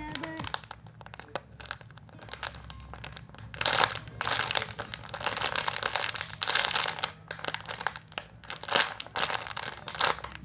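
Plastic crinkling and rustling as something is handled, sparse at first and then dense and loud from about three and a half seconds in.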